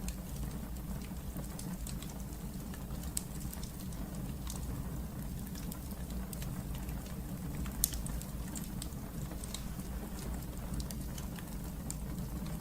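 Wood fire burning in a fireplace: a steady low rumble of the flames with frequent small crackles and a sharper pop a little before the end.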